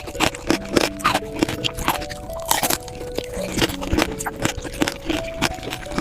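Crunching and chewing of candied fruit skewers (tanghulu) with a hard sugar-glass coating, sharp crunches coming in quick succession, about two or three a second. Soft background music plays with held notes underneath.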